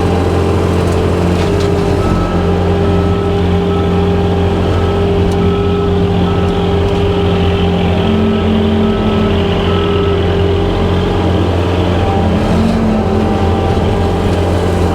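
Skid steer's diesel engine running steadily under load, driving a 6-foot Jenkins brush hog cutting grass and brush. A short beeping tone repeats about every two-thirds of a second from about two seconds in until about ten seconds in.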